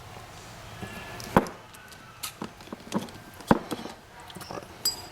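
Sharp clicks and knocks of a small essential oil bottle and plastic parts being handled, several of them about a second apart, with a light ringing clink near the end.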